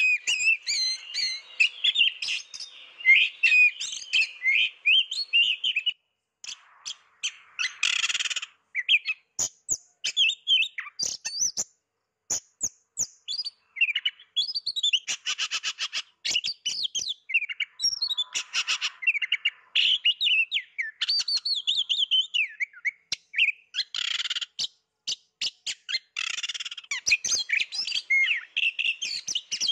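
Oriental magpie-robin singing a long, varied song of quick whistled phrases, broken by several short, harsh rasping notes and a couple of brief pauses.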